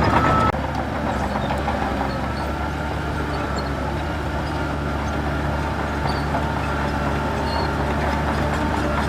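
Heavy diesel engine of earthmoving machinery running steadily at a low, even drone. A pulsing reversing beeper stops about half a second in.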